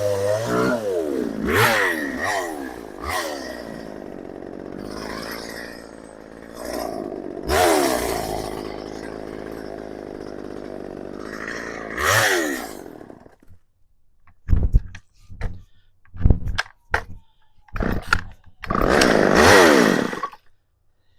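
Craftsman 2.3 cubic inch two-stroke chainsaw engine running and being revved in several blips, then cutting out about 13 seconds in. It is followed by a string of short bursts and one brief run with a rev near the end.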